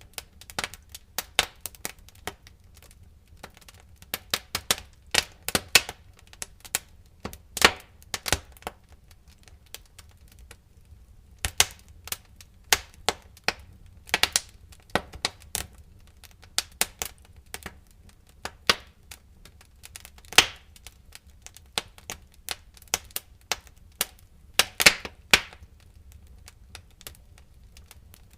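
Wood fire in a fireplace crackling, with irregular sharp pops and snaps coming in clusters, over a faint low rumble.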